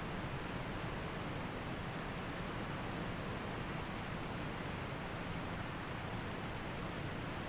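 Waterfall and mountain stream rushing: a steady, even wash of falling and flowing water with no breaks.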